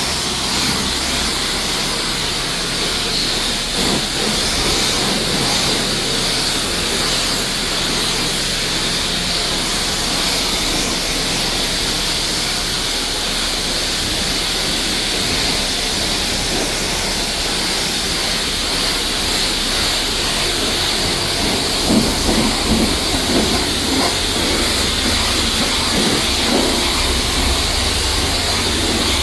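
Steady rushing hiss of wind and road noise from a car on the move, with a low rumble underneath and a few short pops about two-thirds of the way through.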